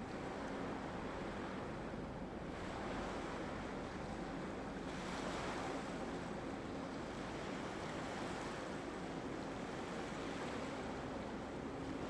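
Broken harbor ice churning and grinding as a freighter pushes through it, a steady noisy wash that swells slightly a few times, with wind on the microphone and a faint low hum.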